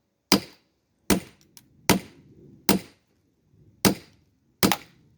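Firewood log being split by repeated blows: six sharp strikes, about one every 0.8 seconds, each with a short ring, as the log is opening up along the split.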